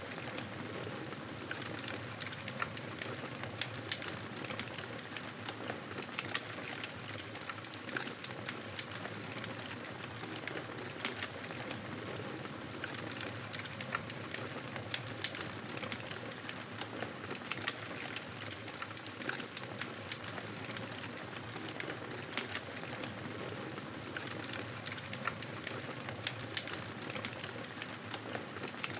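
Fireplace wood fire crackling: a steady soft hiss with many sharp pops and snaps at irregular intervals.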